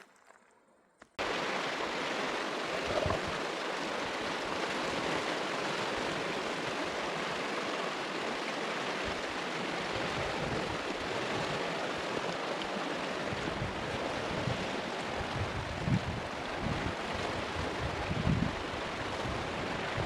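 Red Deer River running high and fast after torrential rains, its water rushing steadily. The sound starts suddenly about a second in, with low uneven rumbles added over the last few seconds.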